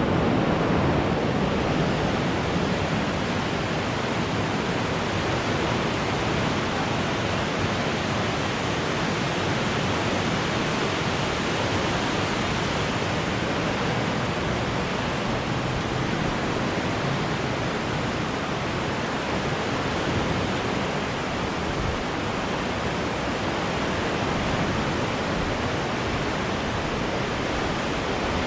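Fast-flowing river water rushing through a deep gorge: a steady, even noise of water.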